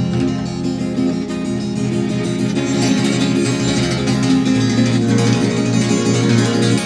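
Acoustic guitar playing the song's instrumental introduction, strummed and plucked chords.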